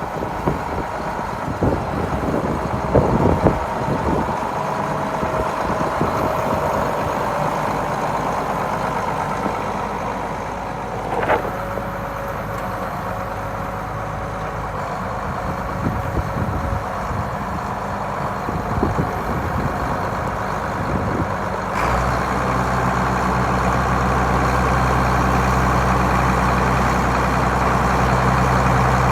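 Case IH 7140 tractor's six-cylinder diesel engine running, with a few knocks and some wind noise in the first seconds. About two-thirds of the way in the engine sound changes suddenly to a steadier, louder low hum.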